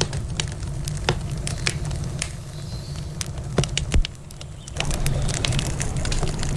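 Campfire crackling, with irregular sharp pops and snaps from the burning wood over a steady low rumble. Two louder pops come about three and a half and four seconds in.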